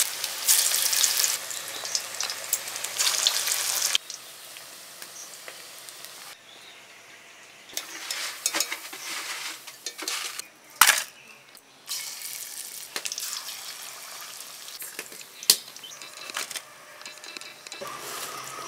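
Onion pakoras (piyaji) sizzling as they deep-fry in hot oil in a metal wok. The sizzle is loudest for the first few seconds, then cuts off suddenly. Quieter frying follows, with a few sharp clicks.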